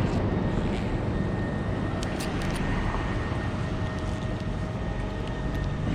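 An engine running steadily: a low drone with a thin, steady high tone over it, and a few light clicks about two seconds in.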